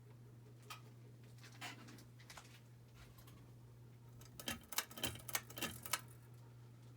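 Steady low hum of a small ceiling fan's motor, with a few light clicks. Then a quick run of sharp clicks and rattles a little past halfway, the loudest sounds here.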